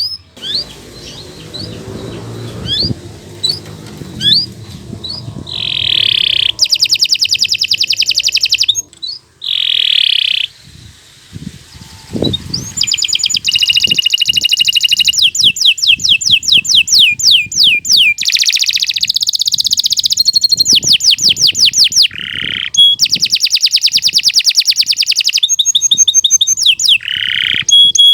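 Domestic canary singing a long song of fast, high-pitched trills and rolls, each run a rapid string of repeated notes, switching from one trill type to the next with a couple of short pauses. A faint low rumble sits under the first few seconds.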